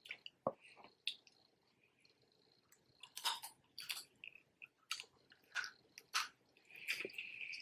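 Close mouth sounds of someone eating snow crab legs: irregular wet smacks and chewing clicks, sparse at first and coming more often after about three seconds, with a short sucking hiss near the end.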